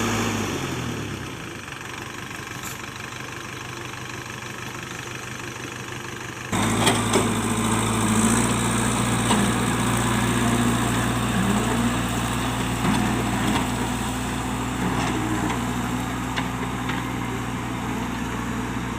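JCB backhoe loader's diesel engine. In the first second or so its pitch drops as it slows, and it runs quieter for several seconds. About six and a half seconds in it is suddenly louder again and runs steadily, with a few faint knocks.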